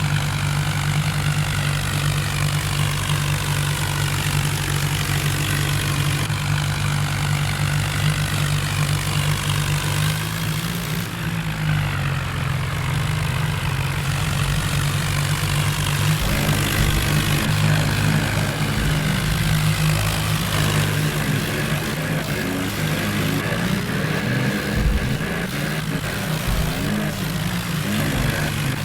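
John Deere tractor's diesel engine running steadily, its note shifting a little about ten seconds in and again about sixteen seconds in.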